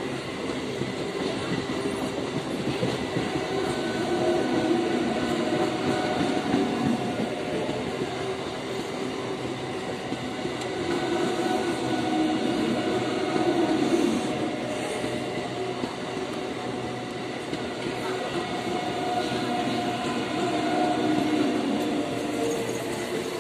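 Electric multiple unit commuter train running past at close range, coach after coach, its wheels rumbling and clattering on the rails under a few steady humming tones. The sound swells and eases slightly as the coaches go by.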